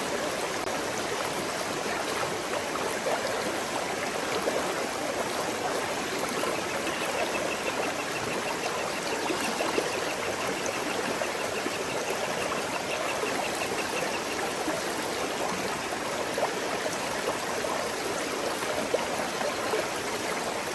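Small forest stream flowing steadily over smooth stones, a continuous babbling rush of water. A faint, fast, high pulsing sound runs under it through the middle of the stretch.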